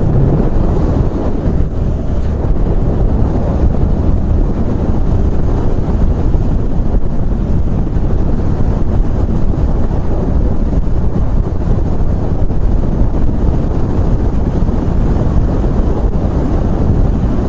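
Steady, loud wind rush and buffeting at about 70 mph, picked up by a microphone inside a motorcycle helmet's padding, with the motorcycle's engine and road noise mixed in underneath as a low rumble.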